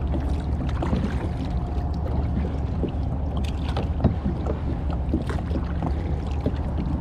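Kayak paddling: water splashing and dripping from paddle strokes at irregular moments, with a steady low rumble of wind on the microphone.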